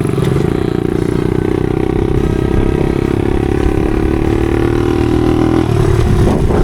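Small four-stroke single-cylinder pit bike engine running under way, held at a steady note, which drops off about five and a half seconds in.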